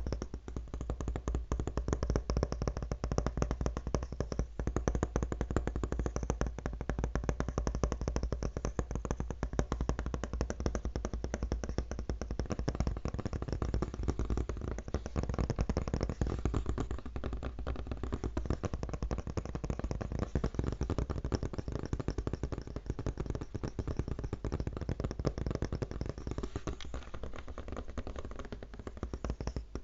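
Fast tapping on a laptop: dense, rapid taps, many a second, running without a break.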